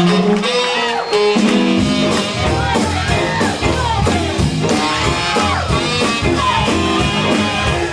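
Live band music with guitar, through an out-of-calibration, distorting sound system; a low bass line comes in about a second and a half in.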